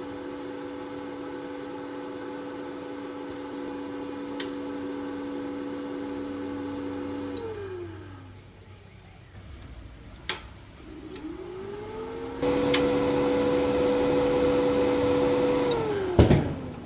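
Electric motor running with a steady whine, then switched off and winding down in about a second. After a sharp click it spins up to the same pitch and runs again, then winds down, with a loud knock just after it stops.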